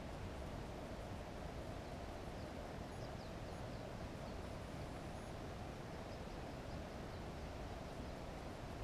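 Steady background hiss and low hum with faint, quick chirps of a distant bird in two short runs, about two and a half seconds in and again around six seconds.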